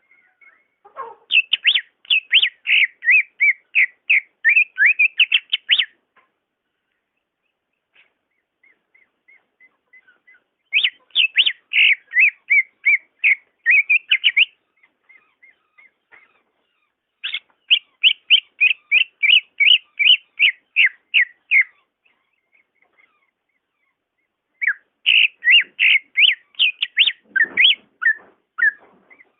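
Cucak ijo (green leafbird) singing in four loud bouts of rapid, repeated whistled notes, about four notes a second. The bouts start about a second in, at about 11 s, at about 17 s and at about 25 s, with soft, faint calls between them.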